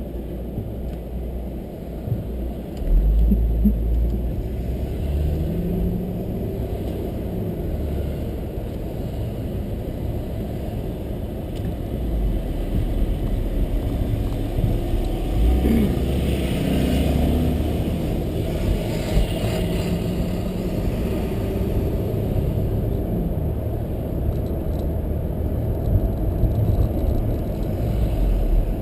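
Car driving slowly, heard from inside the cabin: a steady low rumble of engine and road noise, with the engine pitch rising and falling gently. The low rumble swells louder for about a second, about three seconds in.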